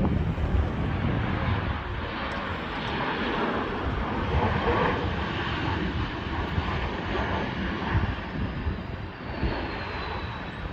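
Aircraft engines running, a steady rushing noise with a faint high whine that falls slowly in pitch near the end.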